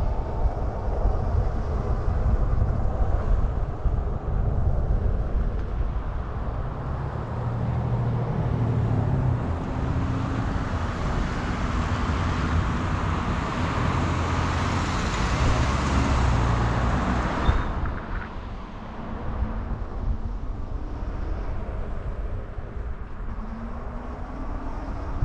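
Riding noise on an electric bike: wind buffeting the microphone over road and traffic noise. A rushing hiss builds and cuts off suddenly about two-thirds of the way through.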